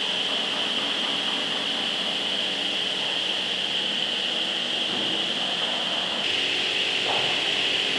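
A woodworking machine running steadily, a continuous whine over a rushing noise, with a slight shift in the sound about six seconds in.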